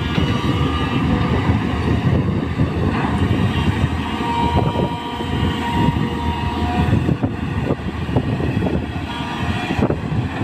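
Tata Hitachi EX200 LC excavator's diesel engine running steadily under working load, with small clanks and clatter throughout and a thin whine in the middle.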